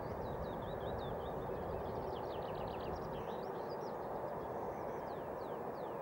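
Small birds singing: short high whistled notes, a rapid run of notes in the middle and a few slow falling whistles near the end, over a steady low background noise.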